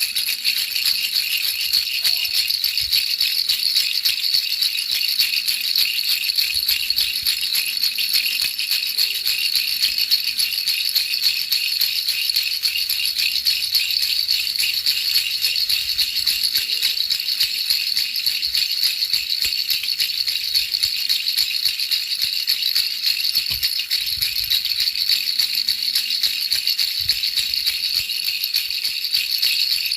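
A baby rattle shaken continuously: a steady, dense, high jingling rattle with no pauses.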